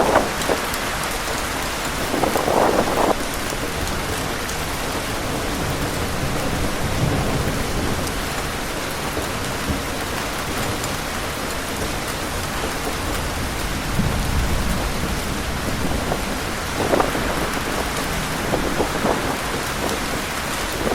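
Heavy rain falling steadily with wind, swelling louder briefly a few seconds in and again near the end.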